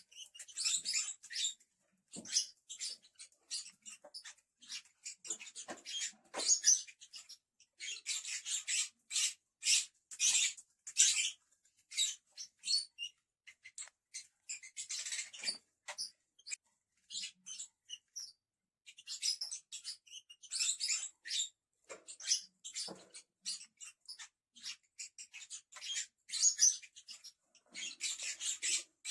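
Lovebirds chattering: rapid, high-pitched squeaks and chirps in bursts of a second or two, with short pauses between.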